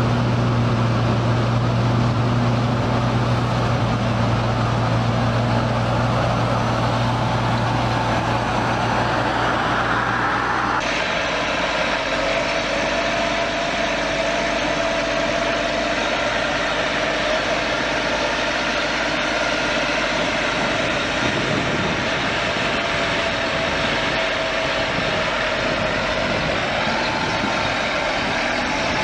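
Heavy machinery engines running steadily. About eleven seconds in, the sound switches abruptly from a deep, even hum to a different steady engine sound with a higher whine over it.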